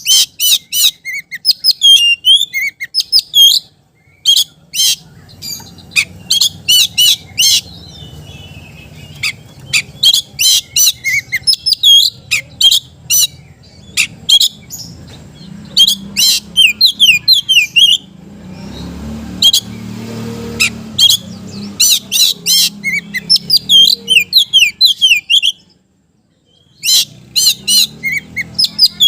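Oriental magpie-robin (kacer) in full, vigorous song: loud, rapid runs of varied whistles, chirps and harsh notes in bursts with short pauses between them, over a faint low hum.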